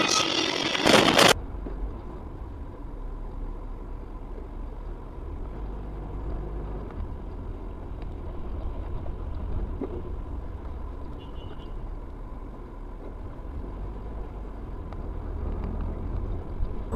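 Steady low rumble of a moving road vehicle, engine and road noise. It sets in about a second in, straight after a brief loud noise that cuts off.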